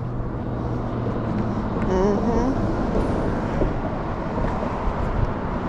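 Steady road and engine noise of a moving car, with a low hum in the first couple of seconds.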